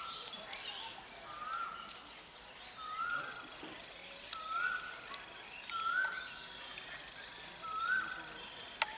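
A bird repeating one short rising call at an even pace, about every one and a half seconds, with other birds chirping faintly higher in pitch.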